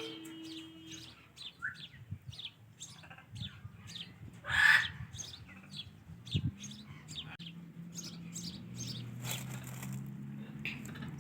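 Ringneck parakeet giving a run of short, high chirps, about two or three a second, with one loud harsh burst about four and a half seconds in.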